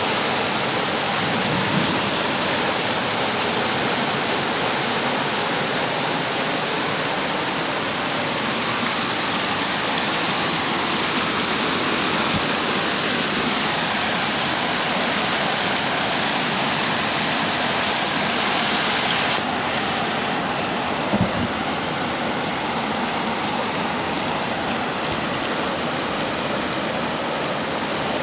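Heavy rain pouring down, a steady loud rushing hiss. Its tone changes abruptly about two-thirds of the way through, and a short thump follows soon after.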